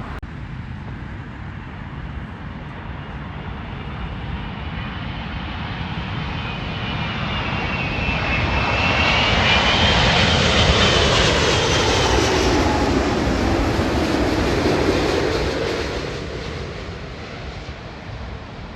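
Jet airliner passing overhead: its engine noise builds, peaks and fades again, with a high whine that falls in pitch as it goes by.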